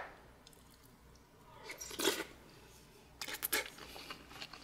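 Close-miked eating of hamburger steak in sauce. One louder wet mouth sound comes about two seconds in, then chewing with short wet clicks.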